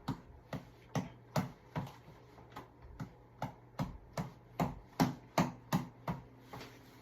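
Tap ball (boxing reflex ball) punched over and over: a run of sharp hits at about two to three a second, loudest around five seconds in.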